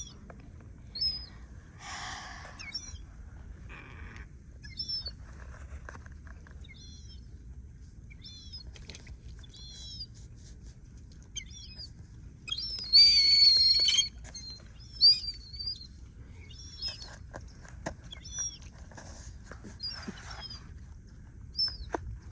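Wild birds chirping outdoors: many short, high chirps repeat throughout. A harsh call comes about two seconds in, and a louder call lasting about a second comes midway and is the loudest sound. A low steady rumble runs underneath.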